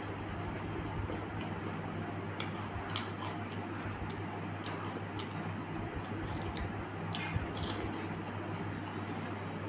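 Someone eating panipuri: crisp puri shells crunched and chewed with scattered sharp cracks and clicks and wet squishing, the loudest crunches about seven seconds in. A steady low hum runs underneath.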